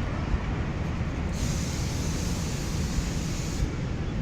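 Passenger train pulling out behind a GE U20 diesel-electric locomotive: a steady low rumble, with a hiss starting about a second in and cutting off about two seconds later.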